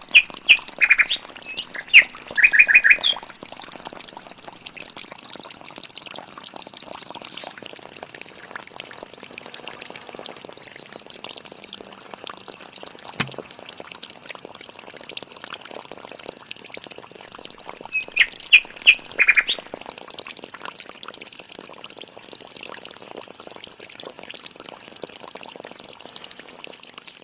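Water pouring and splashing steadily from a small pump's outlet. Twice, a bird breaks in with a quick run of sharp squawking calls: once at the start and again about eighteen seconds in.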